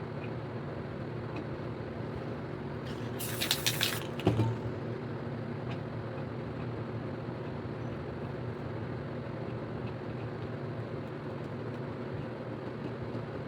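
A spray paint can sprays a short hiss, about a second long, a few seconds in, and a short knock follows. Under it runs a steady low hum.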